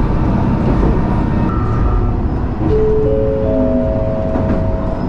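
Running noise inside a Matsuura Railway diesel railcar. About halfway through, the onboard announcement chime sounds: three rising notes that ring on together, the signal that an announcement is about to start.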